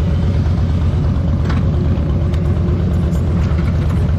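Motorcycle engine running with a steady, pulsing low rumble, and a few faint clicks over it.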